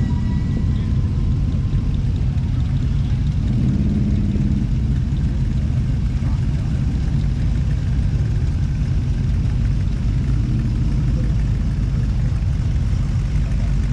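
A car engine idling: a steady, low, even sound with no revving.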